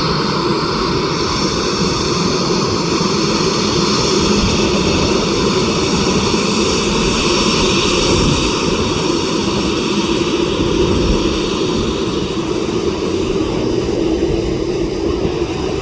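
Jet airliner's engines running loud and steady close by, a continuous roar with steady whining tones over it; the highest hiss thins out in the second half.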